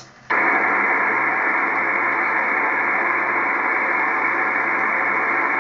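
2-metre amateur radio transceiver's speaker switching back to receive about a third of a second in, then giving out a steady even hiss of band noise with no station audible: the aircraft-scatter signal has faded out.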